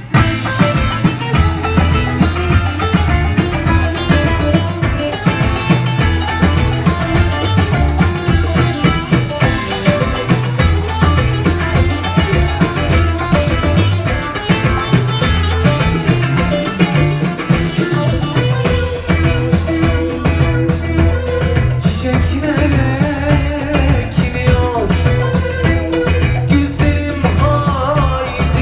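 A live Turkish psychedelic rock band playing, with the drum kit keeping a steady driving beat under a sustained bass line and electric instruments.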